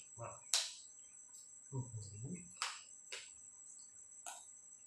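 Close-up eating sounds: a few sharp mouth smacks and crunches of chewing small grilled field-rat bones. Behind them runs a steady high-pitched chirring of crickets.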